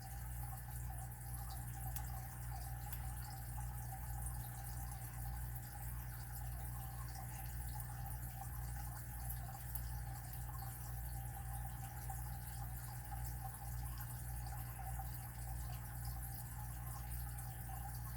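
Faint small ticks and scrapes of a lock pick working the pin stack of a padlock held in hand, under light tension, over a steady low hum.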